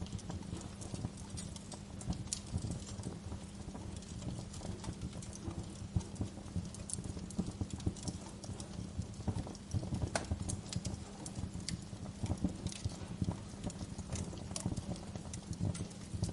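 Wood fire crackling, with irregular sharp snaps and pops over a low, steady rumble of the flames; a few louder pops stand out, such as about six and ten seconds in.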